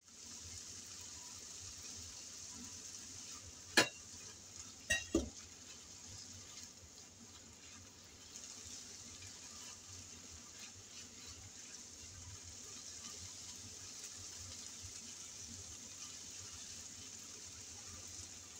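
Ground pork, tomatoes and onion sizzling steadily in a nonstick frying pan as they are stirred with a spatula. The spatula knocks sharply on the pan about four seconds in and twice more about a second later.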